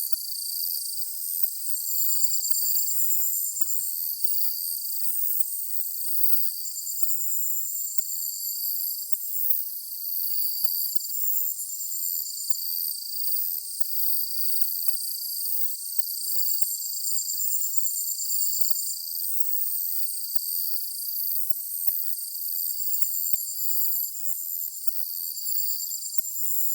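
A chorus of summer evening insects such as crickets, several kinds singing over one another. The calls are high-pitched trills and pulsed chirps that each switch on and off every second or two in an overlapping rhythm.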